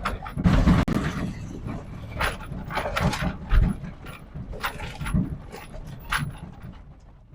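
1996 GMC K1500 pickup's 5.0-litre Vortec V8 giving a steady low rumble. Over it come irregular clunks, knocks and rattles as the lifted truck's suspension and body take bumps over rough ground.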